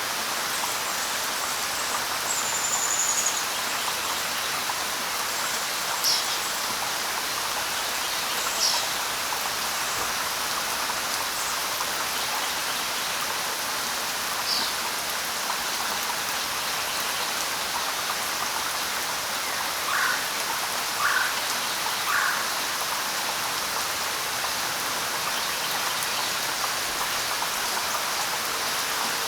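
Steady light rain falling on leaves, with scattered bird calls over it: a short high whistle near the start, a few quick high chirps, and three lower notes about a second apart about two-thirds of the way through.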